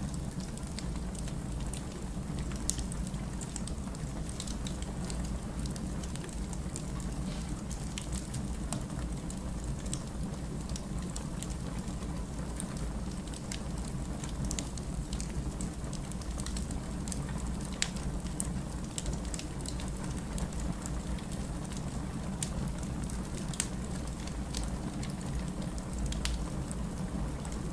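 Firewood burning in a fireplace: scattered sharp crackles and pops over a steady low hum.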